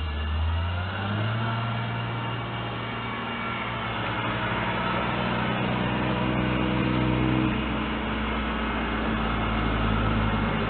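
Motor vehicle engine running steadily, with its pitch stepping up about a second in, over road noise.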